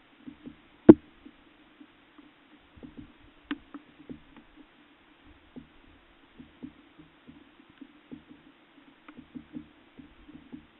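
Great spotted woodpecker pecking at a fat block in a feeder: irregular soft taps and knocks, with one sharp, louder knock about a second in.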